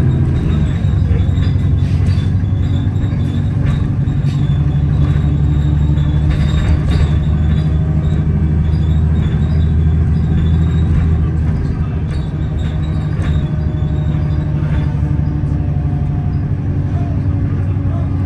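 Alexander Dennis Enviro400 double-decker bus heard from inside while moving: a loud, steady low drone from the engine and axles, with occasional short rattles from the bodywork.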